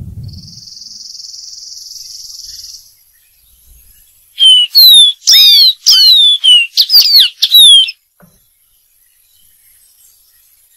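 Dark-throated seedeater singing: a loud phrase of quick, clear whistled notes, most of them sliding downward, starting about four seconds in and lasting about three and a half seconds. Before the song there is a steady high buzz of about two and a half seconds, and a faint high steady whine runs underneath.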